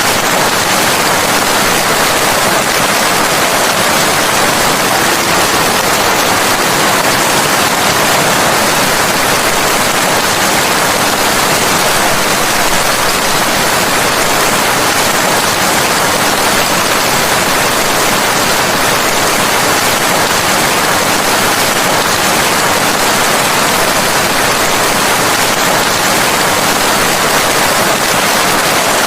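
Steady, dense rain, heard as an even hiss with no distinct drops or thunder.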